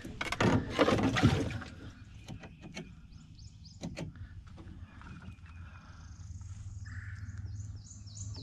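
A loud rustle and a few knocks as a fish and tackle are handled in the boat, then a bird calling: short, high falling notes repeated over and over.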